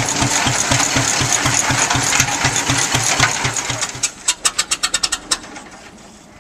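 Old tractor engine, built to resemble a Rumley OilPull, running past with a steady, slow beat of about five to six low thumps a second. It fades away after about four seconds, and a quick run of sharp clicks follows.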